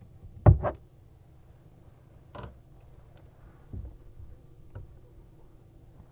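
A few sharp knocks and clicks as hand tools and faucet hardware are handled while an old faucet's nut is loosened: a loud double knock about half a second in, then three fainter single knocks spaced a second or so apart.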